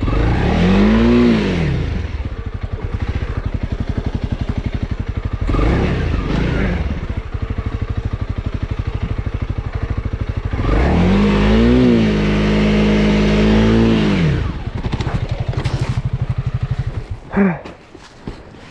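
Honda CRF300L single-cylinder engine revved hard in two long bursts, the pitch rising, holding high and falling back, with lower running in between. Near the end the engine dies down and a dog gives a short whine.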